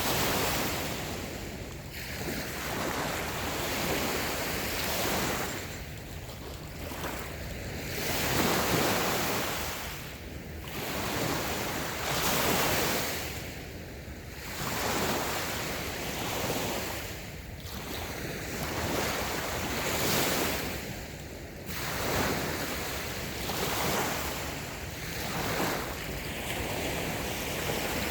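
Light waves breaking and washing onto a sandy beach, the surf swelling and falling back every few seconds.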